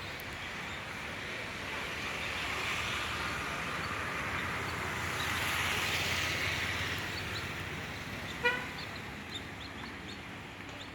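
A vehicle passing by, its noise swelling and then fading, with one short honk about eight seconds in and faint bird chirps in the background.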